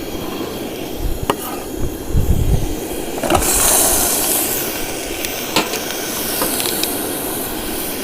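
Curry paste sizzling in a hot pot, with a cooking utensil clicking and scraping against the pot. The sizzle grows louder about three and a half seconds in, then eases.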